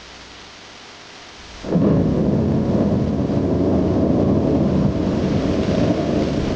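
Steady rain hiss, then about two seconds in a loud, low rolling rumble of thunder sets in abruptly and keeps on over the rain.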